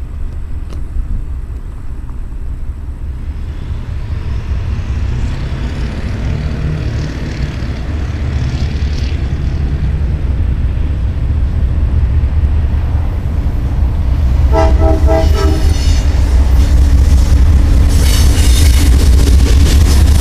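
Approaching CSX autorack freight train, its diesel locomotives rumbling louder and louder. The locomotive horn sounds a few short blasts a little past halfway, and near the end the noise of the train passing close by swells.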